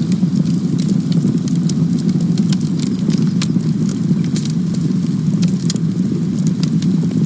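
Campfire burning: a steady low rush of flames with many quick, irregular crackles and pops from the burning wood.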